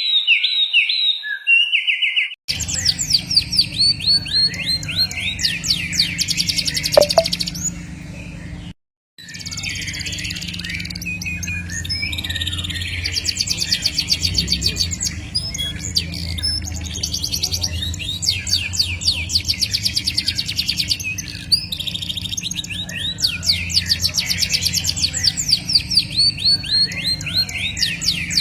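Songbird singing long, fast rolling trills and chirped phrases, the kind of song played to train caged birds, over a steady low background hum. The song breaks off briefly twice, about two and a half seconds in and near nine seconds, where the recording changes.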